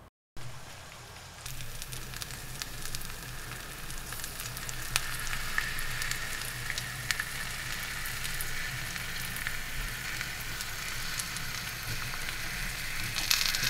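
Eggs and slices of bread sizzling in oil in a carbon steel frying pan, with scattered small pops. The sizzle steps up about a second and a half in and stays steady.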